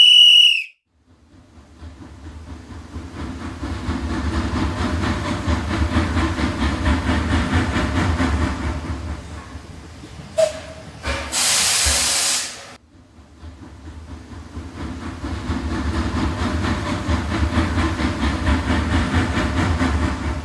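A short high whistle blast, then a train running: a low rumble swells up and holds, breaks off into a loud burst of steam-like hiss about eleven seconds in, and then builds again.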